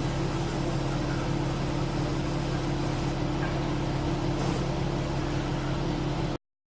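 Automatic car wash running: a steady machine hum over an even spray-like hiss, which cuts off suddenly about six seconds in.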